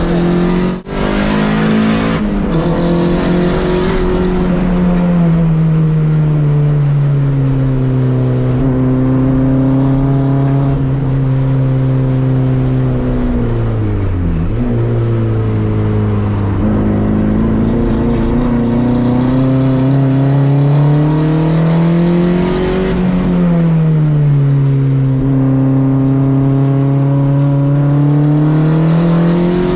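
Volkswagen race car's engine heard on board during a lap of a road course, its revs climbing and falling in long, slow sweeps as it pulls through corners and straights. There is a short break in the sound about a second in and a sharp drop in revs about 14 seconds in.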